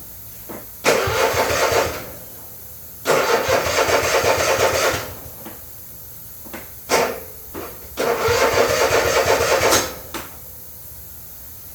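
Electric starter cranking the Troy-Bilt Mustang XP zero-turn mower's Kohler engine in three short bursts, with a couple of brief taps on the key between them; the engine does not catch. It is a hard start that the mechanic puts down to a weak battery, a starter going bad, or valves needing adjustment.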